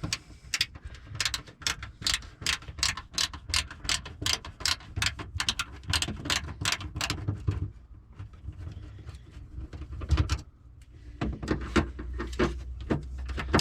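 A ratcheting hand tool clicking steadily, about four clicks a second, as the Phillips screws of a fuel pump access panel are backed out. It stops for a few seconds about eight seconds in, then starts clicking again.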